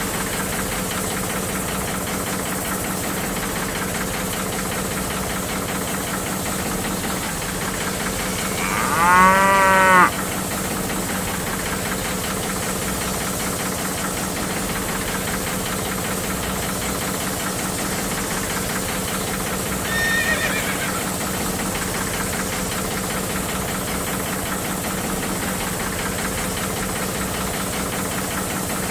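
A small electric water pump hums steadily, feeding spray jets of water. About nine seconds in a cow moos loudly once, rising and falling in pitch for about a second, and a shorter, fainter call comes about twenty seconds in.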